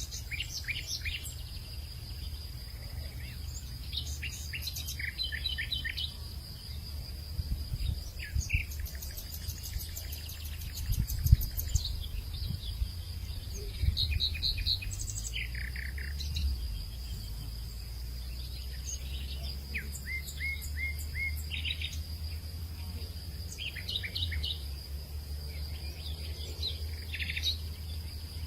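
Several songbirds chirping and calling in short, repeated phrases of quick notes over a steady high insect drone, with a low rumble of wind underneath: an outdoor hillside evening soundscape.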